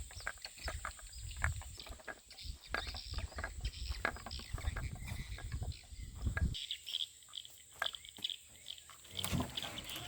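Footsteps through vegetation, with irregular rustles and thuds, stopping about six and a half seconds in; birds call in the background.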